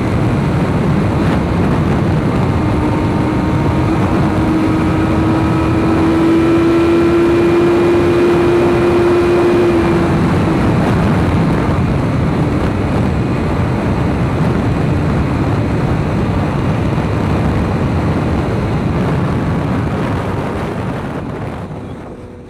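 BMW S1000RR's inline-four engine running steadily under a dense rushing noise, its pitch creeping up slightly in the first half, then the whole sound fading out at the end.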